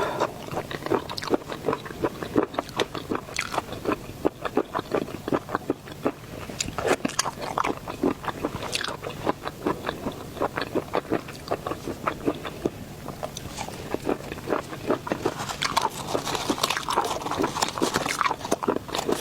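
Close-miked eating of seafood: rapid, irregular crunchy bites and chewing with wet mouth clicks, growing denser near the end.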